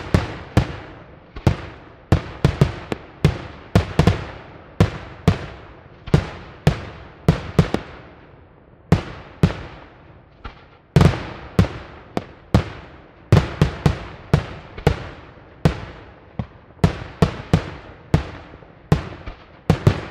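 Daytime fireworks: aerial shells bursting overhead in a rapid, irregular string of sharp bangs, about two or three a second, each trailing off in a short echo.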